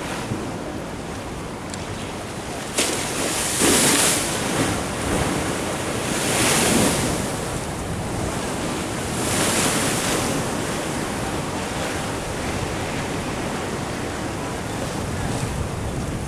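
Ocean waves washing in at the shore, with three louder surges about three seconds apart, over steady wind noise on the microphone.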